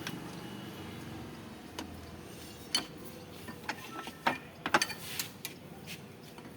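Metal tools and shock-absorber parts clicking and tapping during work on a motorcycle rear shock absorber: a scatter of sharp, irregular clicks, thickest and loudest just before five seconds in.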